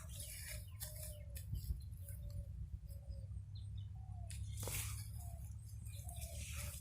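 A bird's short, slightly falling calls, repeated about every half second, with scattered sharp clicks or rustles over a steady low rumble.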